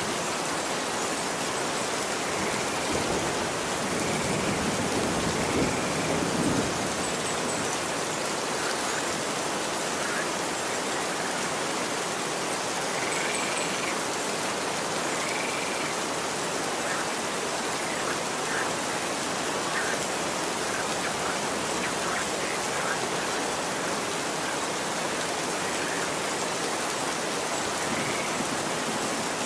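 Steady rain falling, an even hiss. Short faint calls recur every few seconds, and a low swell rises briefly around five seconds in.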